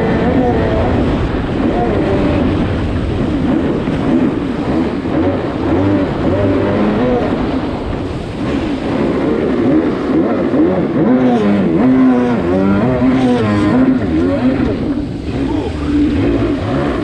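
A DASA two-stroke engine in a Kawasaki 650SX stand-up jet ski running while it is warmed up, its pitch wavering up and down with the throttle.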